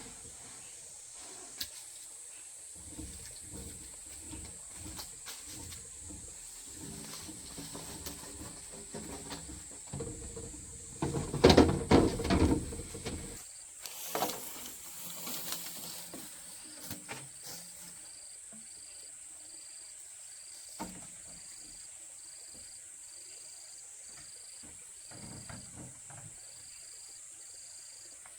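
Steady high insect drone, with a cricket chirping at a slow, regular pulse in the second half. A cluster of knocks and clatter about halfway through is the loudest thing.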